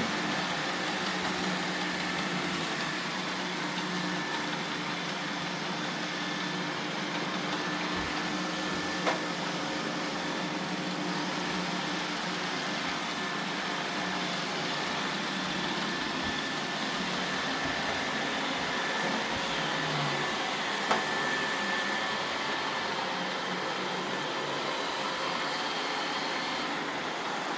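iRobot Roomba robot vacuums running steadily, a hissing motor and brush hum with a few steady tones. Two short sharp clicks stand out, about nine and twenty-one seconds in.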